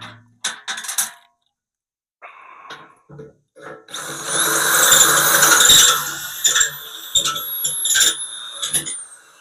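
Electric drill boring a hole through the steel of a tractor loader bucket. A few knocks and clicks of handling come first. About four seconds in, the drill spins up with a rising whine and runs as the bit cuts the metal, the whine sliding lower near the end.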